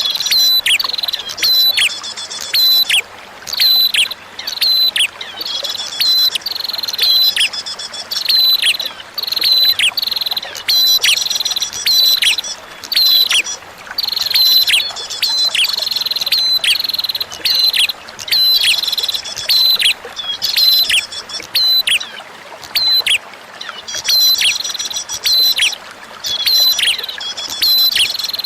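Prinia (prenjak) song: loud, high, sharp chirps repeated in quick bursts every second or two, many of them ending in a short falling sweep, over a faint hiss of flowing water.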